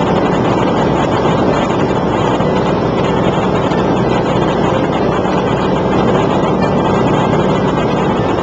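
Light aircraft's engine and propeller running steadily, heard with wind rushing over the microphone.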